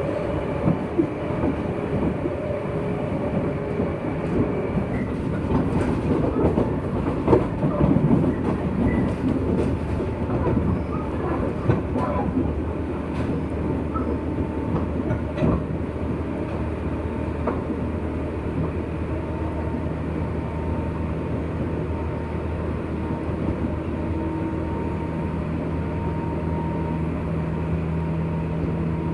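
JR West 201 series electric train running on the rails, heard from on board a motor car: a steady rumble with humming tones from the drive, and a run of clicks from the wheels over rail joints about six to twelve seconds in.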